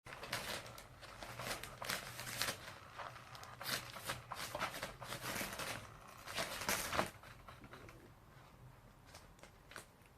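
Scratchy rustling and clicking of a cat playing with a Catch Me If You Can 2 electric feather toy. The sound is busy for about the first seven seconds, then thins out and gets quieter.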